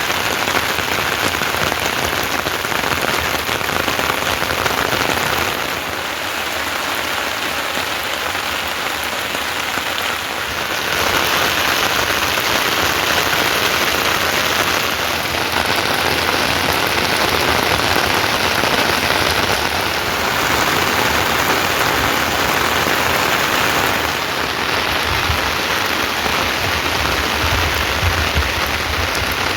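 Steady rain falling, an even hiss of many drops that grows a little louder about eleven seconds in.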